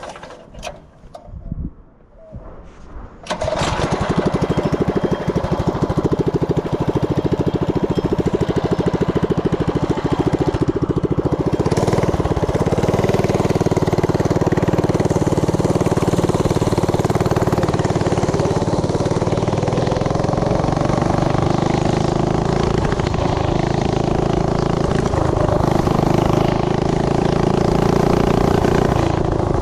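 Tillotson 212 single-cylinder four-stroke engine on a mini bike starting about three seconds in, after a few short knocks, then running loudly and steadily. About twelve seconds in it settles into a higher, even pitch that holds to the end.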